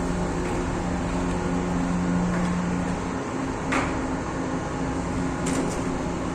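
Ship's engine-room machinery running loud and steady, a dense mechanical din with a low steady hum, and a short metallic knock about halfway through.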